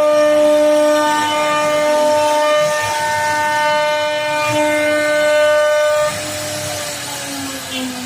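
CNC router spindle whining at a steady high speed, then winding down with falling pitch about six seconds in.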